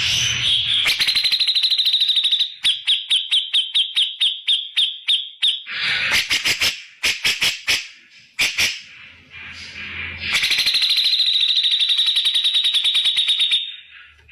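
Grey-cheeked bulbul (cucak jenggot) giving loud, harsh calls: a fast buzzing trill, then runs of short, sharp, clipped notes, then another long buzzing trill near the end.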